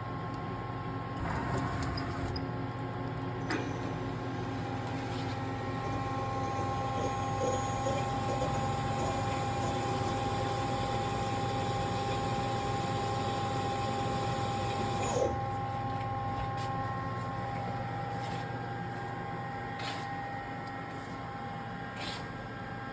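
2004 Takisawa TC-200 CNC lathe running under its own hum: a steady whine sets in about five seconds in and stops sharply about fifteen seconds in, followed by a few sharp clicks near the end.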